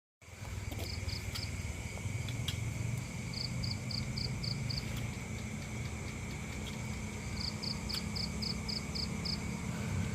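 Insect chirping in three runs of short, high pulses, about four or five a second, with a constant thin high whine over a steady low rumble.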